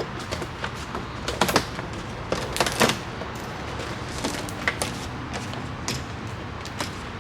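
Plastic clicks and snaps of the inside door-handle cable clip being worked back into its tab at the door latch, with the loudest snaps about a second and a half in and just under three seconds in.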